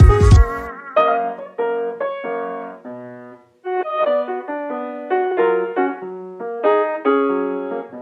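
Background music: a solo piano playing struck notes that ring and die away, after a fuller passage with bass that stops just under a second in.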